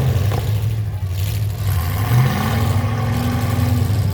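Full-size pickup truck engines running and revving in a demolition derby, the pitch rising and falling.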